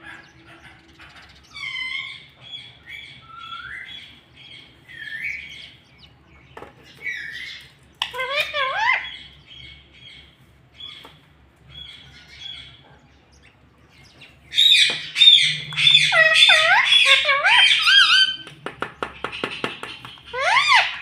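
Pet ringneck parakeet chirping and squawking, with short gliding calls spaced out at first and a louder, rapid run of calls in the second half.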